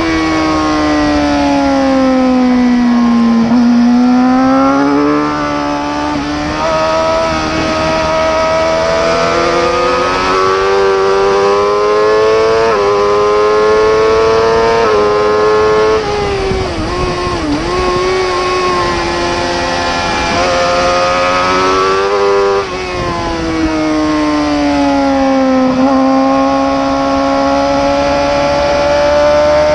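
Racing superbike engine at full race pace: its note falls away under braking for corners, then climbs hard through the revs with quick sharp drops at each upshift, several times over.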